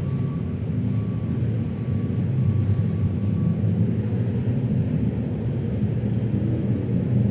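Steady low rumble of city traffic, engines and tyres, with a faint thin tone that fades out about three seconds in.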